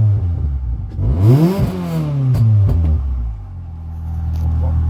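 Ford Fiesta ST150's 2.0-litre four-cylinder engine through a Sportex aftermarket exhaust, idling, then blipped once about a second in. The revs rise and fall back with a couple of sharp cracks from the exhaust as they drop, then it settles to a steady idle.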